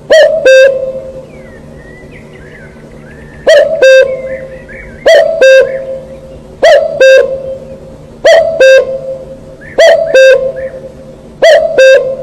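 A bird's loud two-note call, repeated seven times about every second and a half, with faint high twittering of smaller birds between the calls.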